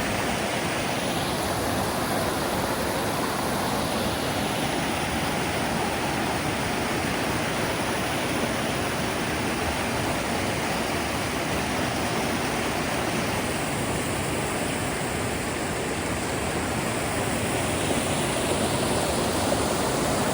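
Steady rush of river rapids: fast water pouring over rocks.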